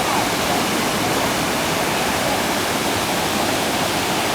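Waterfall pouring down in a loud, steady rush.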